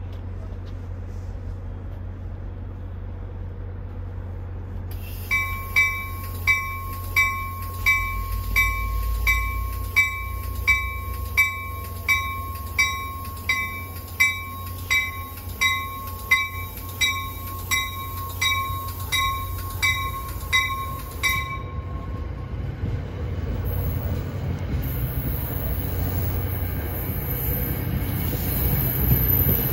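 A warning bell rings steadily at about one and a half strokes a second, then stops about three quarters of the way through. A train approaching the station follows, its rumble and hiss building in loudness toward the end.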